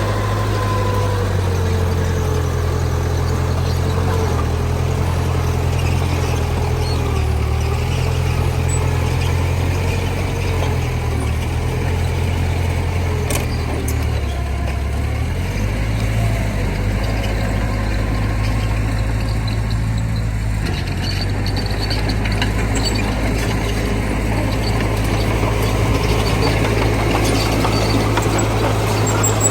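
Diesel engines of a dump truck and mini bulldozer running steadily, with a low drone whose pitch shifts as the throttle changes, most clearly about halfway through.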